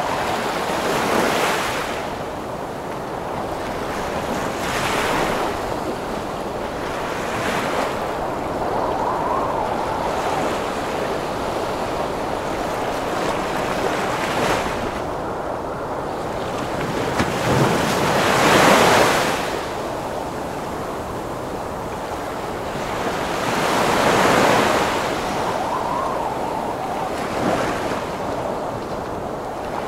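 Heavy ocean surf in a wind storm: waves break and wash in every few seconds over a steady rush of wind, the biggest crash about two-thirds of the way through.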